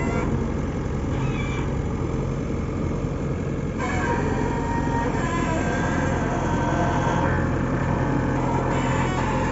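Heavy diesel engine running steadily, with a continuous low engine note and fainter higher tones shifting above it.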